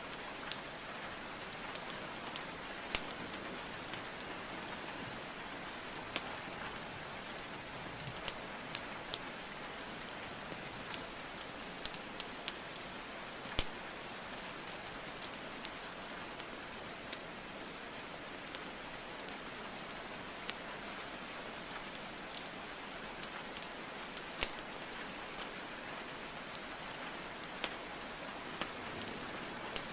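Steady rainfall hiss mixed with the irregular sharp crackles and pops of burning wood logs, the loudest pop about halfway through.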